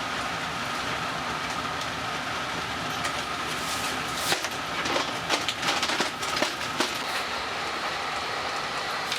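Train running along the rails with a steady running noise, and a run of sharp clacks from the wheels over rail joints about halfway through.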